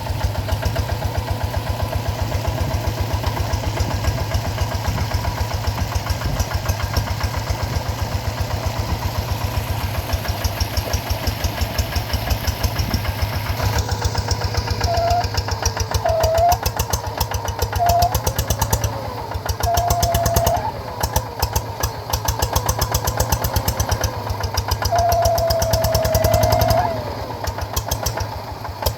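Hand tractor's single-cylinder diesel engine running with a steady, rapid beat. From about halfway, a few short high tones sound over it, with a longer one near the end.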